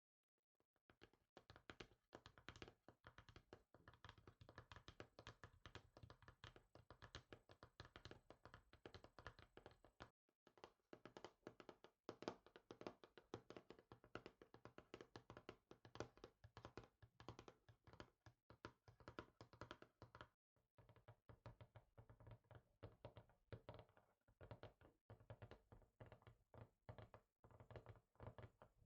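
Fingers tapping rapidly on a surface, many quick taps a second in a dense flurry, with brief breaks about ten and twenty seconds in.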